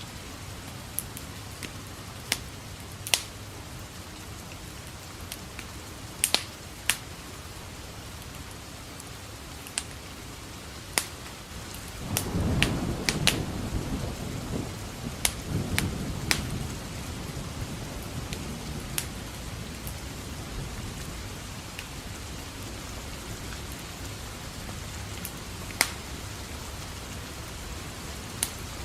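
Steady rain with a roll of thunder that comes in about twelve seconds in and dies away over several seconds. Sharp scattered pops throughout, the crackle of a wood fire in a fireplace.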